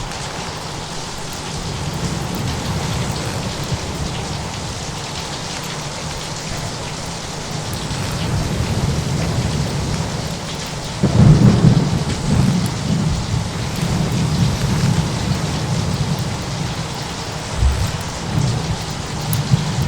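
Steady rain, with a clap of thunder breaking about halfway through and rolling on as a deep, uneven rumble, swelling again near the end.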